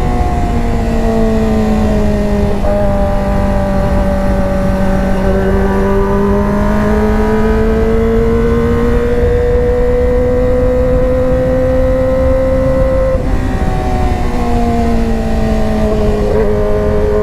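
Kawasaki ZX25R's inline-four engine running steadily through a GP Tech Zeus Short aftermarket exhaust. Its pitch drifts slowly up and down, with a few small sudden drops.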